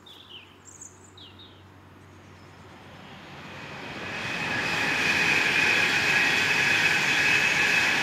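A few bird chirps, then an electric passenger train passing at speed: a rush that rises from about three seconds in and stays loud and steady, with a high whine running through it.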